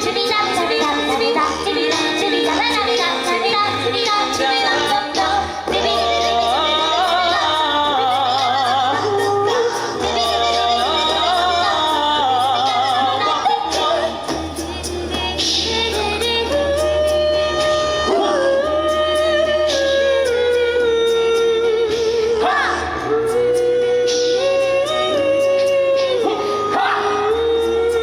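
A small vocal group singing a cappella: female voices carry a melody with marked vibrato over a deep, sustained bass part that moves in held steps.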